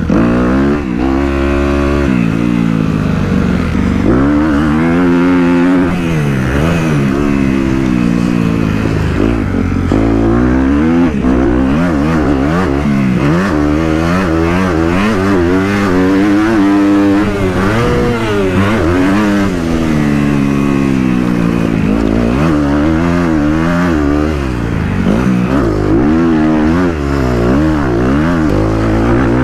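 Dirt bike engine running hard, its pitch rising and falling over and over as the throttle is opened and closed and gears change.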